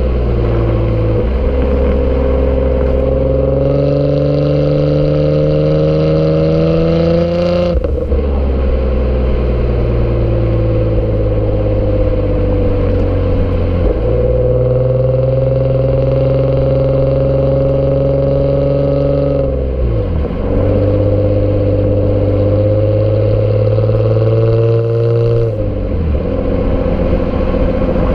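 Exhaust note of a Nissan Altima SE-R's 3.5-litre V6 while the car is driven. The pitch holds or drifts slowly for stretches of several seconds, then drops or shifts abruptly about every six seconds.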